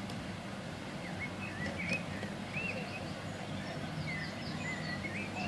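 Open-air ambience of a crowd on a park field: a steady low hum under a background of noise, with small birds chirping in short, wavy notes through the middle.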